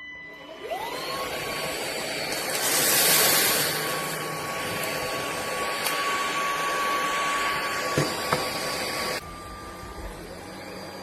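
iXlion cordless stick vacuum switched on: its motor spins up with a rising whine and then runs steadily with a strong rush of air, loudest about three seconds in. About nine seconds in it drops suddenly to a lower, quieter running sound.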